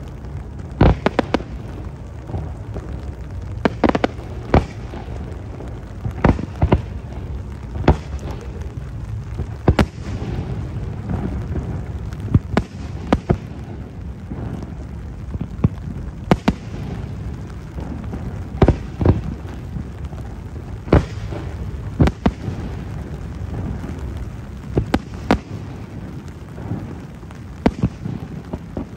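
Fireworks display: aerial shells going off in an irregular string of sharp bangs, about twenty in all, over a continuous low rumble.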